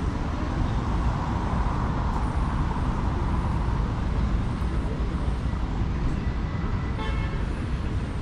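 City street traffic: a steady rumble of passing cars and buses, with a short horn toot about seven seconds in.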